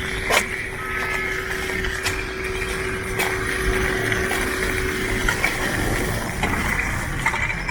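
City street traffic noise: a vehicle's engine hums steadily and fades out about six seconds in, with a few sharp knocks.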